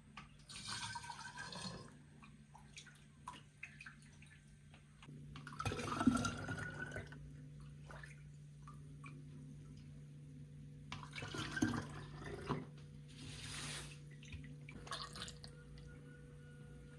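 Water running or pouring in several short bursts, with a low steady hum underneath.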